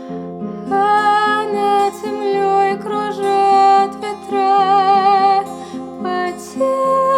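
A woman singing with vibrato over a plucked acoustic guitar accompaniment. The voice comes in under a second in, with held notes that waver.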